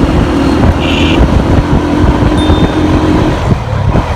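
Busy street traffic: vehicle engines running in a dense, steady rumble, with a brief high-pitched tone about a second in.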